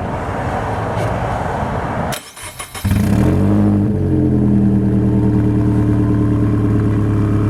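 A car engine starts about three seconds in, after a steady rushing noise, and settles into a steady idle. The exhaust pipe has been wrapped in heat tape where it touches the strut tower, and the clanking rattle it used to make on startup is gone; the owner says it sounds so much better.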